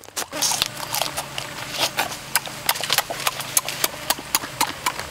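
Open-mouthed chewing and lip-smacking: a quick, irregular run of sharp wet clicks, about three or four a second, over a faint low hum.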